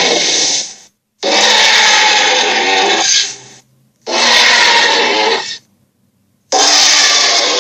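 Electronic toy playing recorded sound effects through its small speaker. There are four separate clips of about one to two seconds each, broken by short silences, with a noisy, rushing quality.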